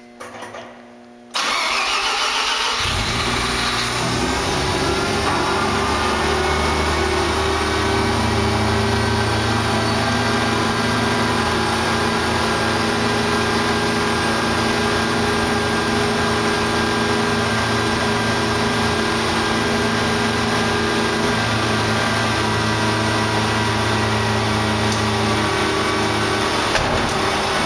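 Mazda RX-7 FD3S's 13B-REW twin-rotor rotary engine starting about a second and a half in, then idling steadily. It is a cold start after a long winter in storage.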